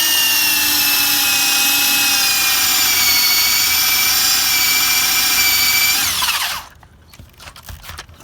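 Power drill boring a hole into a piece of firewood, a loud whine whose pitch sags slightly as the bit bites in and then holds steady. It spins down and stops about six and a half seconds in, followed by a few light knocks.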